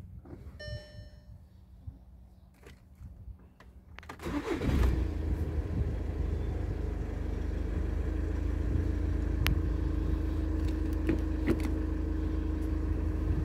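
Volkswagen Sharan engine starting: about four seconds in, the starter cranks briefly, the engine catches and flares up, then it settles into a steady idle.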